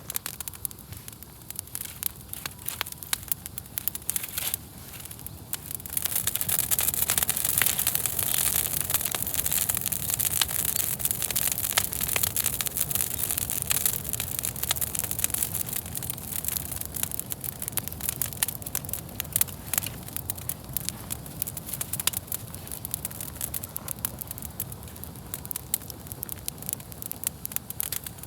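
Wood campfire crackling, with frequent sharp pops and snaps. A louder hiss comes in about six seconds in and fades gradually over the second half.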